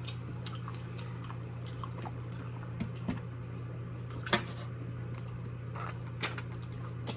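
Chewing and other mouth sounds of eating, with a few sharp clicks scattered through, over a steady low hum.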